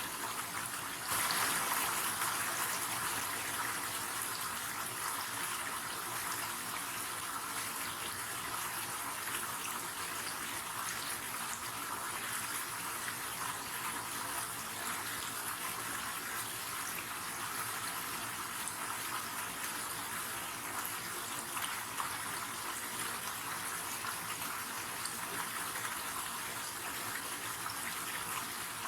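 River water rushing steadily, an even hiss of flowing water that gets a little louder about a second in.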